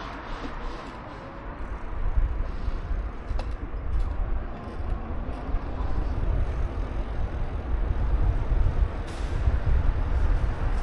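Wind rumbling on the microphone of a moving bicycle, mixed with road noise. It grows louder about two seconds in and then stays gusty and uneven.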